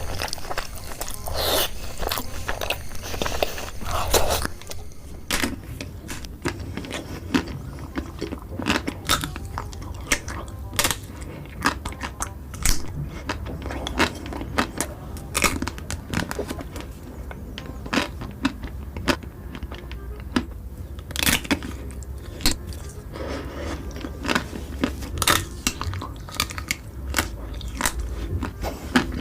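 A person eating close to the microphone, biting and chewing with many short, sharp crunches at irregular intervals over a steady low hum.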